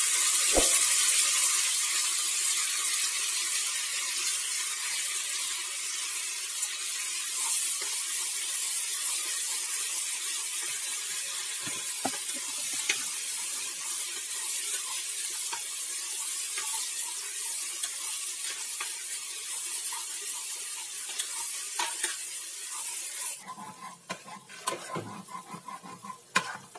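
Blended spice paste frying in hot oil in a metal pot, sizzling loudly as soon as it is tipped in with a thud, then easing slowly as it is stirred with a metal spoon. Near the end the sizzle drops away, leaving spoon scrapes and clinks against the pot.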